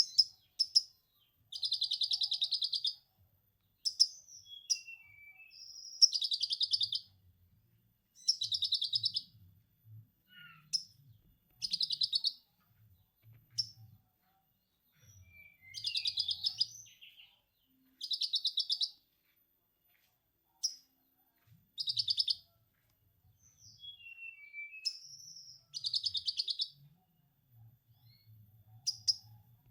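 Lovebird ngekek: bursts of rapid, dense chattering trills about a second long, repeated again and again with short pauses, with a few brief whistled glides in between.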